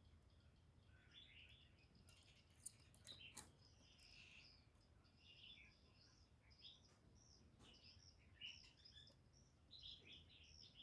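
Faint chirping of small birds: short, high calls scattered throughout, with a few sharp clicks between about two and three and a half seconds in.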